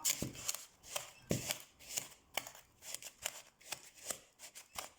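A utensil stirring and scraping against a mixing bowl as butter and sugar are creamed by hand, in short irregular strokes about two or three a second.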